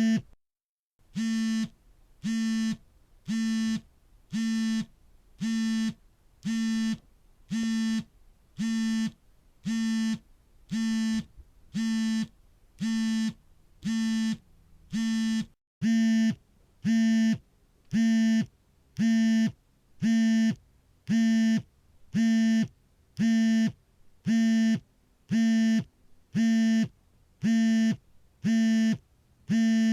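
A smartphone vibrating for an incoming call: a steady, low buzz pulsing on and off about once a second, each buzz lasting about half a second. Brief breaks interrupt the pattern near the start and about halfway, and after the second break the buzzes are slightly louder.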